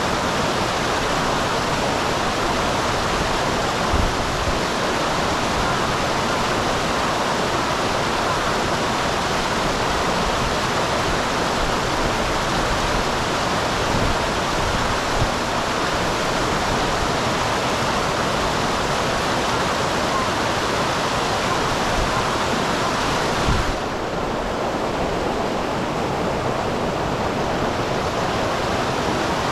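Small waterfall on a mountain stream, water rushing and splashing in a steady, even roar. About three quarters of the way through it becomes slightly duller and quieter.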